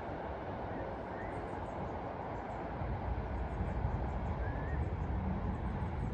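Outdoor ambience of a steady low rumble, like passing traffic or a train, growing louder about halfway through. Faint high bird chirps sound over it.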